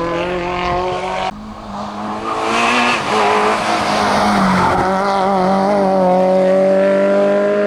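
Seat Panda hillclimb car's engine pulling hard at high revs, the pitch rising slowly near the end, with a burst of tyre squeal in the middle.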